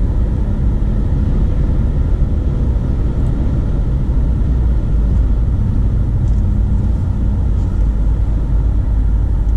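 Steady low rumble of a car driving along a highway: road and tyre noise with engine hum, even throughout.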